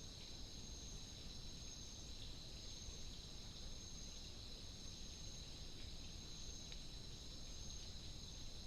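Night insect chorus in forest: a steady, unbroken high-pitched trilling in two pitches, over faint low background hiss.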